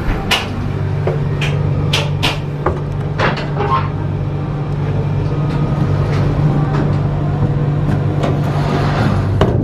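Passenger train coach under way: a steady low drone with irregular sharp knocks and rattles, most of them in the first few seconds and again near the end.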